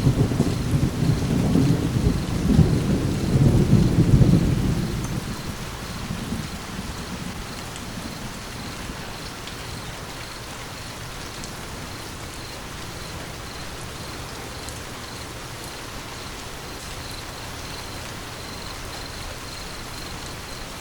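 A roll of thunder rumbling over steady rain, loudest in the first few seconds and dying away by about a third of the way in, leaving the even hiss of rain falling.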